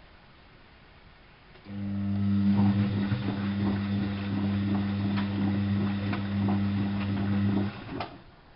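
Washing machine drain pump switching on about two seconds in and running with a steady loud hum, water rattling and gurgling through it, then cutting off abruptly, followed by a sharp click. The owner notes this drain pump is somewhat loud.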